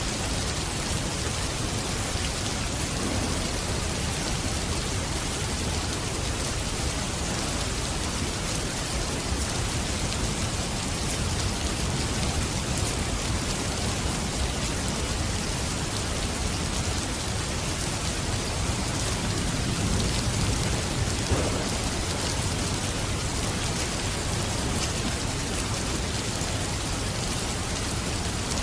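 Steady rain falling, an even hiss of drops, with a slight low swell about two-thirds of the way in.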